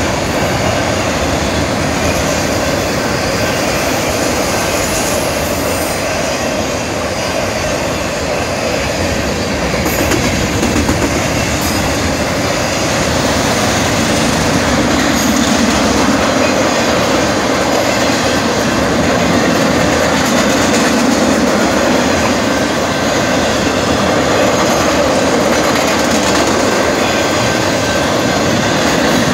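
Long freight train of autorack cars and flatcars rolling steadily past a grade crossing, the cars running over the rails in a continuous rumble that grows a little louder in the second half.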